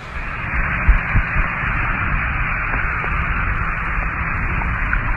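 Loud, steady hiss confined to a narrow band, sounding like static heard through a two-way radio or a narrow-band phone line, with a few low thumps about a second in.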